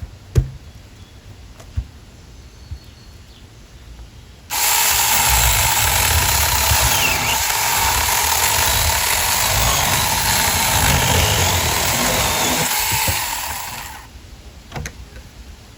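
Saker mini cordless electric chainsaw cutting through a tree limb. A few light knocks come first, then the saw starts abruptly and runs steadily at full speed for about nine seconds before trailing off and stopping.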